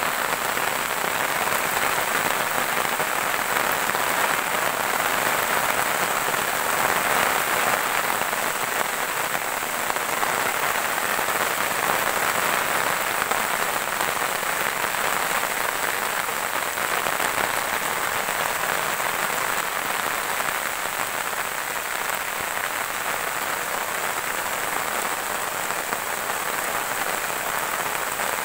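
Steady rain falling on grass and leafy vegetation, an even wash of drops that holds at one level throughout.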